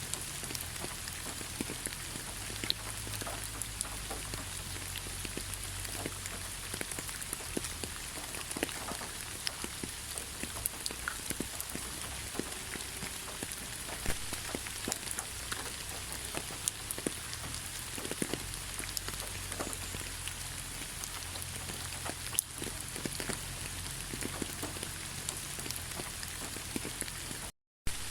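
Steady rainfall, with many individual drops ticking sharply on a hard surface. The sound cuts out completely for a moment near the end.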